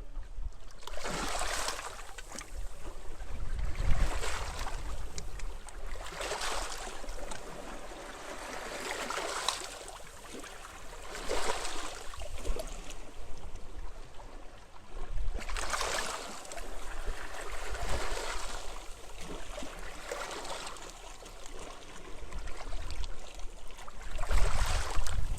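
Small waves washing onto a beach, each wash a swell of hiss that comes and fades every two to three seconds. Wind rumbles on the microphone underneath and gusts louder near the end.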